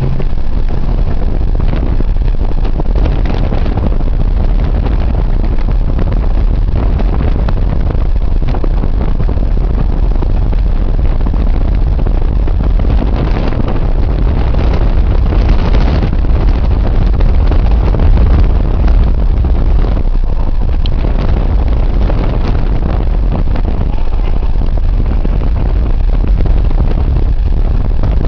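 Storm wind buffeting the microphone: a loud, continuous low rumble with a hiss above it, swelling somewhat past the middle.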